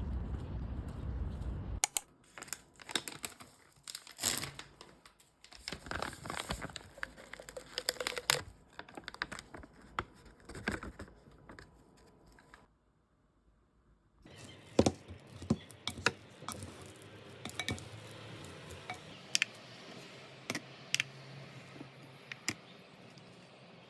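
Crinkling and tearing handling noises with scattered sharp clicks and taps, broken by a short silence about two-thirds of the way through.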